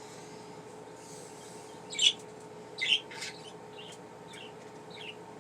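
Pet budgerigar chirping: about half a dozen short, high chirps, the loudest two about two and three seconds in, with softer ones after, over a steady background hum.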